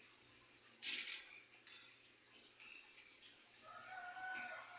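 Small songbirds at sugar-water feeders calling, a scatter of short, very high chirps that thicken in the second half. A steady lower whistled tone comes in near the end.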